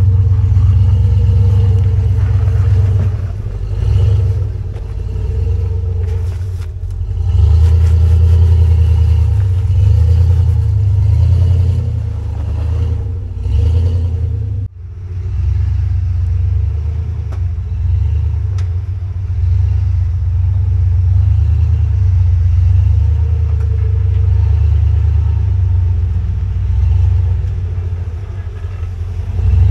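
Off-road Jeep engine running with a deep, loud rumble, the level swelling and easing as the throttle is worked, with a brief drop about fifteen seconds in.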